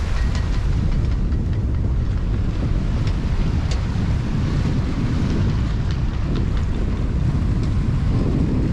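Wind buffeting the microphone aboard a sailboat underway, a steady low rumble with the wash of a choppy sea beneath it.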